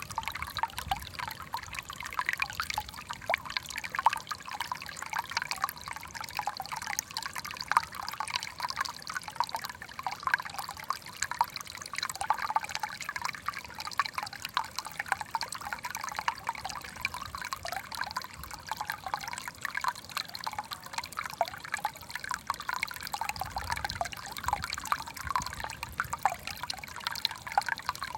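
Water trickling steadily in a small aquascape tank, a dense, unbroken patter of tiny splashes and drips.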